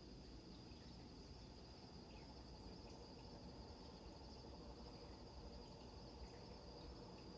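Crickets chirping in a faint, steady high trill over a low, even rumble.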